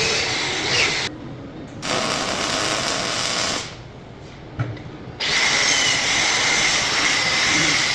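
Electric arc welding on 1/8 inch steel plate: three runs of steady crackling hiss, stopping briefly about a second in and again for about a second and a half near the middle.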